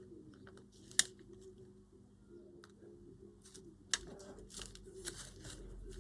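Paper and card being handled at a craft desk: scattered light rustles and small clicks, with two sharp clicks, about a second in and again near four seconds.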